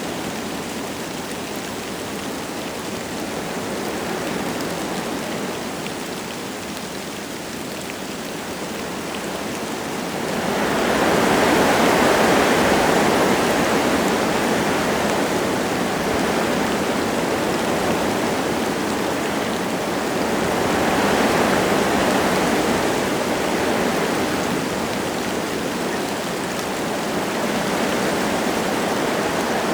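Wind gusting through forest trees with light rain falling: a steady noise that swells with a strong gust about ten seconds in and again about two-thirds of the way through.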